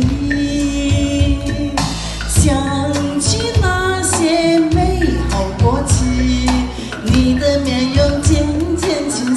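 A woman singing a pop song over a backing track with bass and drums.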